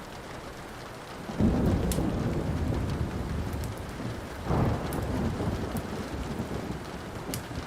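Thunder rolling over steady rain: a low rumble breaks in about a second and a half in, swells again around four and a half seconds, then slowly fades. A few sharp pops of a crackling wood fire sound now and then.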